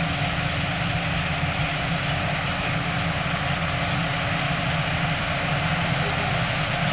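Bulldozer's diesel engine running at a steady speed, a constant low hum with no change in pitch.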